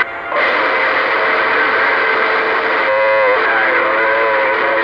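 Radio receiver static: a steady hiss with faint whistling tones drifting through it, one wobbling briefly about three seconds in.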